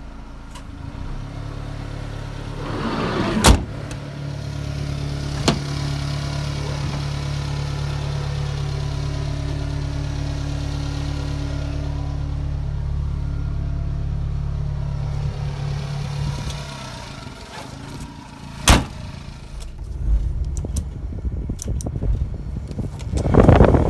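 1995 Subaru Sambar van's 660 cc four-cylinder engine idling with a steady low hum that drops away about two-thirds of the way through. Three sharp clicks and some rustling handling noise come over it.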